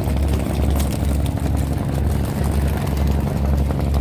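A big ferry's engine running steadily: a deep, low hum that pulses at an uneven rhythm of roughly twice a second.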